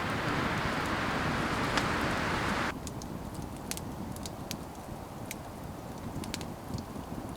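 A steady hiss that cuts off suddenly a little under three seconds in, followed by the scattered sharp pops and crackles of a wood campfire.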